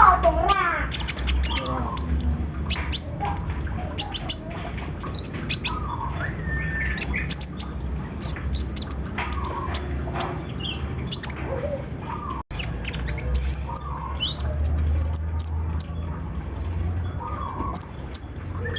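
Olive-backed sunbird (kolibri ninja) chirping: a scatter of sharp, very high chips and short, quick twittering notes, with a steady low hum underneath.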